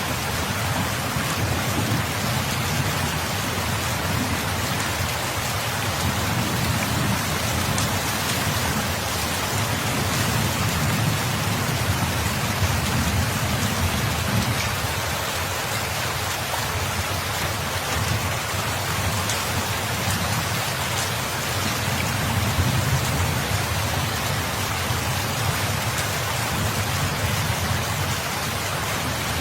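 Steady rain falling, with a constant hiss of drops and a low rumble that swells and fades slowly underneath.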